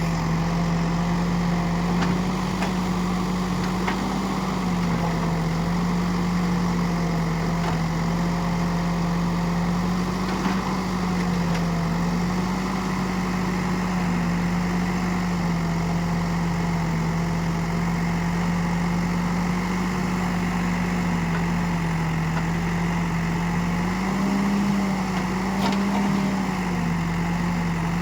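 Heavy diesel engine running steadily, its pitch stepping up slightly now and then, with a few faint knocks.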